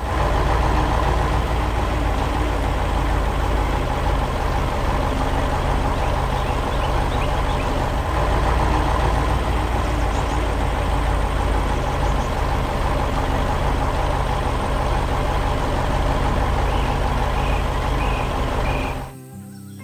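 Heavy truck engine running steadily at idle, starting abruptly and cutting off suddenly about a second before the end.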